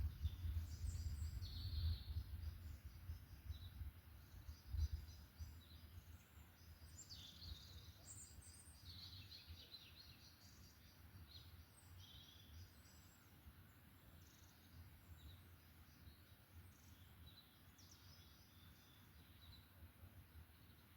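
Several songbirds chirping and trilling in short, high-pitched phrases, busiest in the first half and thinning out later. Under them a low rumble is strong for the first five seconds or so and then fades away.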